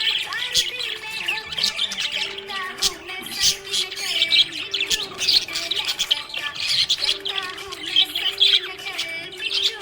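Budgerigars chirping and warbling in a continuous busy stream of quick high chirps, trills and short sharp calls: the chatter of contented budgies.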